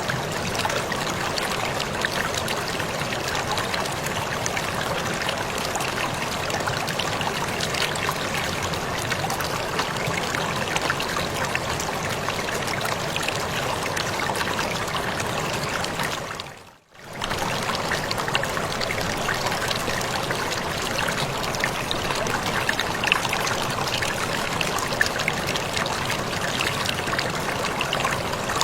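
Waterfall: falling water splashing and rushing in a steady, even wash. About two-thirds of the way through it briefly fades almost to silence, then comes straight back.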